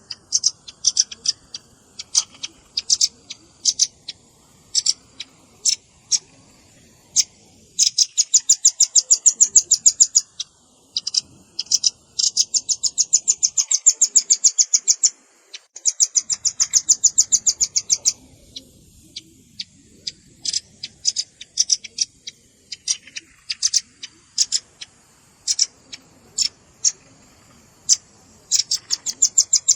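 Velvet-fronted nuthatch (red-billed rambatan) calls played as a bird lure: sharp, high chips, some single and some run together into fast trills a few seconds long, about ten notes a second.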